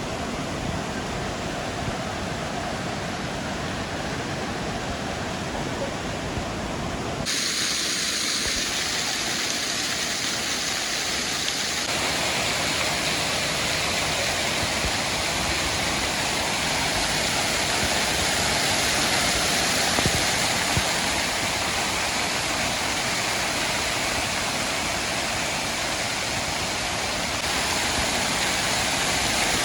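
Waterfall water falling and rushing, a steady, unbroken noise; its tone changes abruptly about seven seconds in and again around twelve seconds, with more hiss and less low rumble after the first change.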